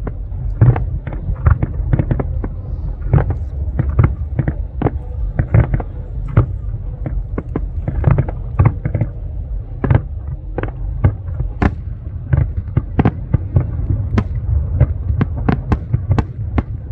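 Large aerial fireworks display: a rapid, continuous barrage of shell bursts, several bangs a second over a steady low rumble. The bangs grow sharper in the second half.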